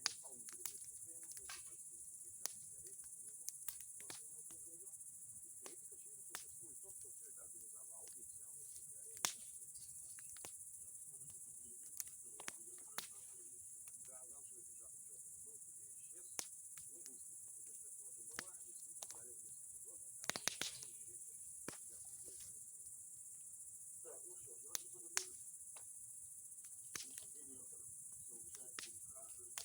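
Bonfire of boards and pine cones crackling, with scattered sharp pops and a short cluster of them about two-thirds through, over a steady high-pitched chirring of crickets.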